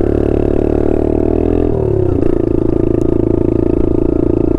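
A small dirt bike's engine running under way. Its note climbs slowly, drops suddenly a little under two seconds in, then runs steady again.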